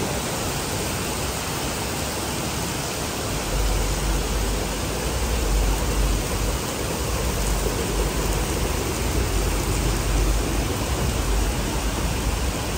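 Heavy rain pouring onto a paved street, a steady hiss of falling water on hard wet ground. A low rumble joins about three and a half seconds in and stays.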